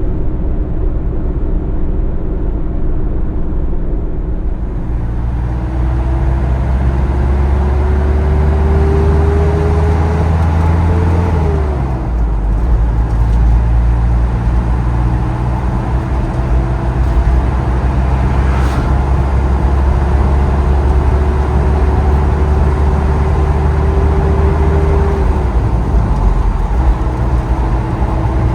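Car engine and road noise while driving. The engine pitch climbs slowly, drops about a third of the way in, climbs again and drops near the end, as the car shifts up through the gears.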